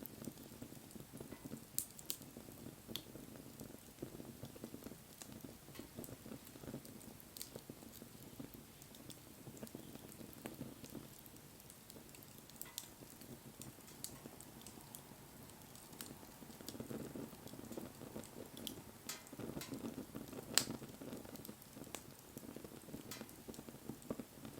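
Wood bonfire burning: a soft low rustle of flames with scattered sharp crackles and pops. The loudest pop comes about twenty seconds in.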